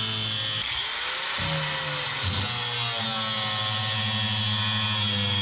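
Angle grinder cutting through the truck bed's sprayed-in bed liner and sheet metal: a steady high whine over a low hum that dips and wavers about a second in, then settles steady again.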